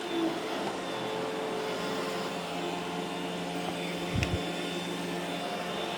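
iRobot Roomba e5 robot vacuum running steadily, its motor and brushes giving an even hum with several steady tones. Two short, low thumps come about four seconds in.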